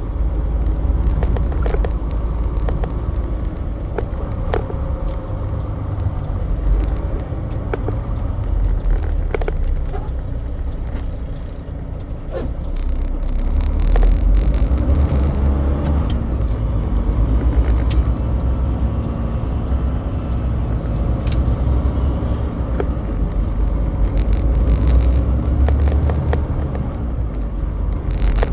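Semi truck driving: a steady low rumble of diesel engine and road noise, with scattered sharp clicks and knocks, swelling louder about halfway through.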